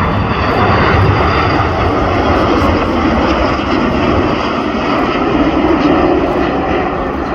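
Airbus A330-303 airliner's General Electric CF6 turbofans passing low on final approach to land: a loud, steady jet roar with a faint high whine on top, beginning to fade near the end.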